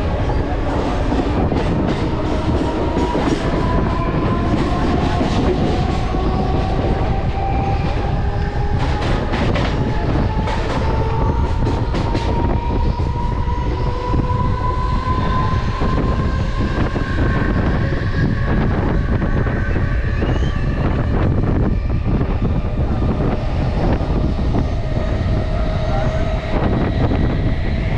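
Mumbai suburban electric local train running: a steady rumble of wheels on rails with a motor whine that rises slowly in pitch as it gathers speed. A run of sharp clacks comes from the rails about nine to twelve seconds in.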